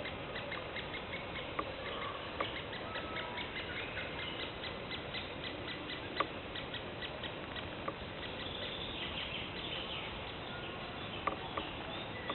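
Forest birds singing and calling: many quick, short, high chirps and trills overlapping, with a few sharp clicks scattered through.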